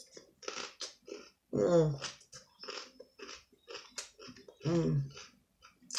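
A person chewing raw salad greens with many short crisp, wet crunches. The voice sounds twice briefly, about two seconds in and again near the end.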